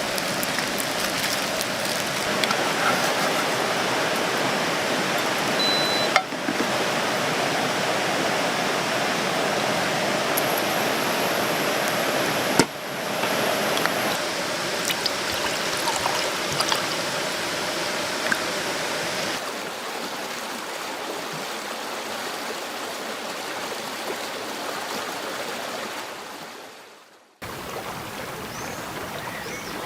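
Steady rushing water, a stream or rain, heard in several cut-together clips with abrupt changes in level, fading out near the end.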